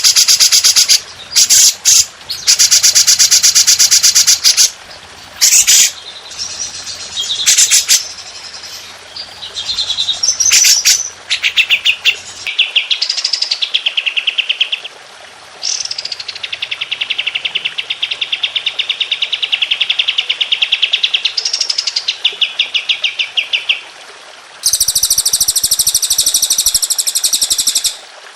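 Recorded songbird song in a fast 'tembakan' style, with several different phrases one after another. First come short, loud, harsh chattering bursts, then rising and falling warbles. From about twelve seconds in, a long rapid trill slides down in pitch and runs for several seconds. Near the end comes a high, harsh buzzing phrase.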